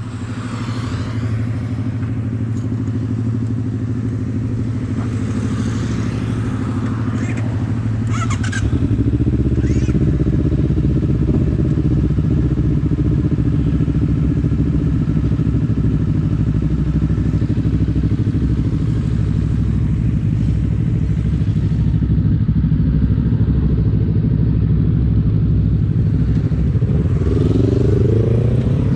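Kawasaki Z250 motorcycle with a SeaPro aftermarket muffler riding along, its engine note steady. It gets louder with a change in the engine note about eight seconds in, then rises in pitch near the end as it accelerates.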